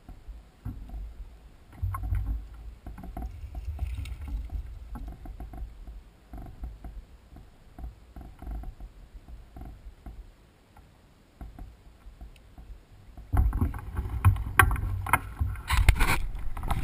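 Mountain bike riding over a rough trail: a low wind rumble on the microphone with frequent rattling knocks, quieter midway and loudest over the last few seconds.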